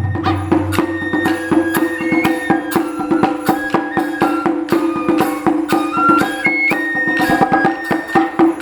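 Japanese taiko ensemble playing a lively festival piece: a high flute melody moving in steps over a steady beat of sharp drum and metal strikes, about four a second.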